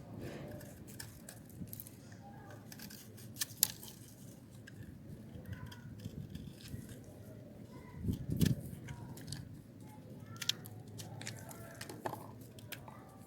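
A knife cutting and scraping hard, dry soap, giving an irregular crackly scratching with sharp clicks. A heavier, duller thump comes a little past halfway.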